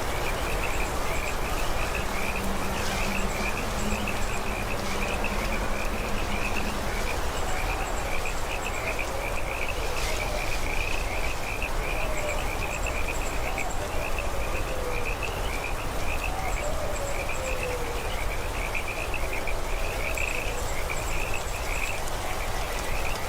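A chorus of frogs calling rapidly and without pause, with insects trilling high up in short spells and an even hiss underneath.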